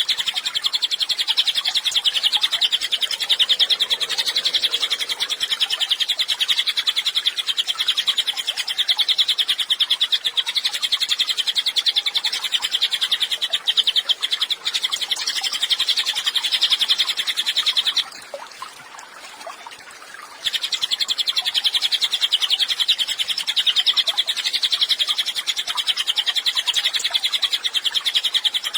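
Cililin (pygmy tit) chirping in a dense, very rapid, high-pitched trill that runs on without pause, breaking off for about two seconds roughly two-thirds of the way through before resuming.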